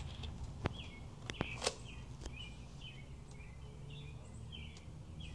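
Small birds chirping repeatedly in short, quick calls, with a few faint clicks and one sharper snap a little under two seconds in.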